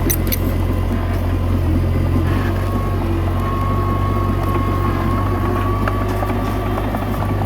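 Komatsu D21A mini bulldozer's diesel engine running steadily, with a faint high whine held over it and a few sharp clanks at the start.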